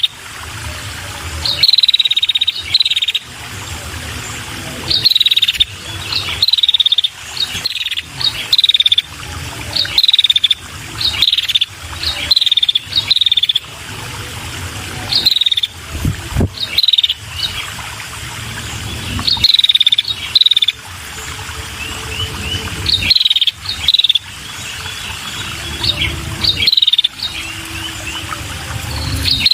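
Female red-headed prenjak calling: short, sharp chirps in quick rattling runs that drop slightly in pitch, repeated in clusters every second or two. This is the female's call, used as a lure for male prenjak.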